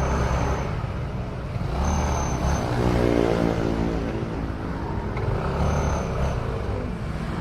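Motorcycle engine running between tyre burnouts, its pitch rising and falling in light revs.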